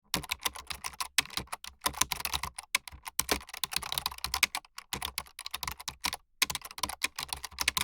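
Fast typing on a computer keyboard: a dense run of key clicks that pauses briefly twice.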